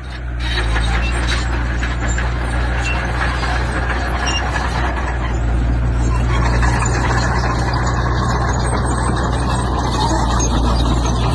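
Heavy diesel engine of earth-moving machinery running steadily, with scattered light clatter over the engine note.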